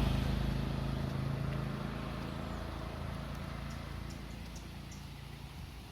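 A motor vehicle's engine, loudest at first, fading steadily as it drives away. A few faint high chirps sound in the middle.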